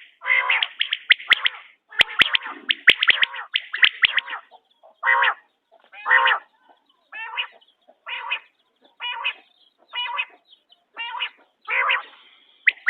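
Quail calling: a dense run of quick, rattly calls over the first few seconds, then single short calls about once a second.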